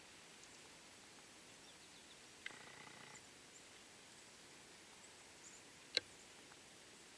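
Near silence outdoors, broken by one short faint pitched call about two and a half seconds in and a single sharp click about six seconds in.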